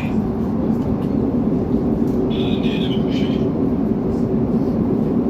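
Class 345 electric train in motion, heard from inside the carriage: a steady low running noise with a hum, and a brief high squeal starting about two and a half seconds in and lasting about a second.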